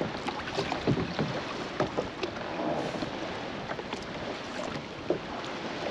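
Water lapping and slapping against a fishing kayak's hull, with scattered light knocks and clicks throughout.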